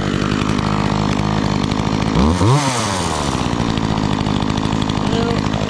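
Makita chainsaw running at idle, revved once about two seconds in, its pitch rising and falling back to idle. Its chain has just been re-tightened after coming loose.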